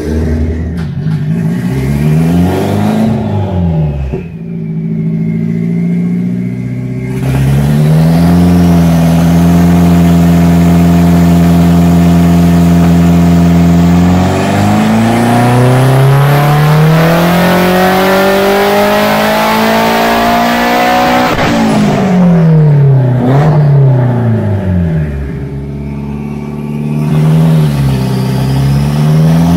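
Big-turbo Audi 1.8T 20-valve inline-four on a hub dyno: a few quick throttle blips, then the engine held at steady revs under load for several seconds before climbing steadily through the rev range for about seven seconds in a loud full-throttle dyno pull. The pull cuts off sharply, the revs fall away, and a few more blips follow.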